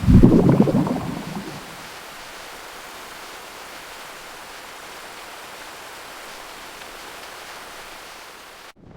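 A clap of thunder at the start, loud and low, rumbling away over about a second and a half, followed by a steady hiss of rain.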